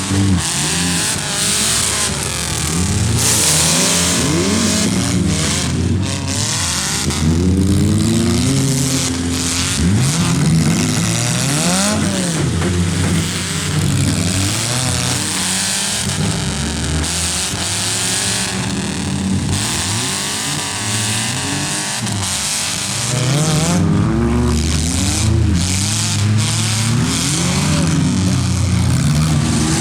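Several compact cars' engines revving hard and dropping back, many at once and rising and falling in pitch over and over, with scattered bangs of cars colliding in a demolition derby.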